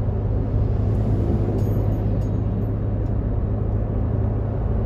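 Steady low drone of a car's engine and tyre noise, heard from inside the moving car's cabin.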